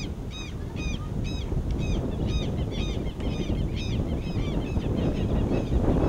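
A bird calling over and over, in short arched notes about two a second, fading out about five seconds in, over a steady low rumble.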